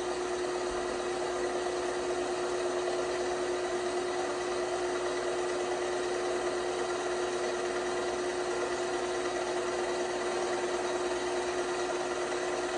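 LG washing machine running steadily: an even motor hum with a constant pitched whine, no rhythm or pauses.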